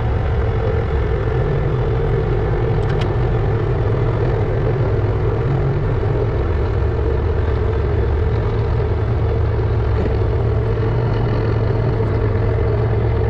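APE vibratory pile hammer running steadily, a loud, even low drone, as it works to extract a wooden pile.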